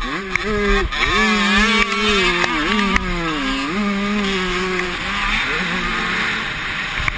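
Motocross motorcycle engine revving at high pitch, the pitch climbing and dropping sharply a few times as the throttle is worked, then running a little quieter near the end.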